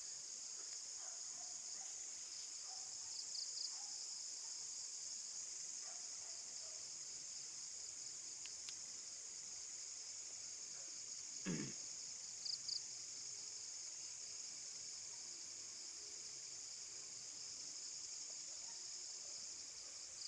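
Steady high trilling chorus of night insects such as crickets, with a few short chirps and one brief thump about halfway through.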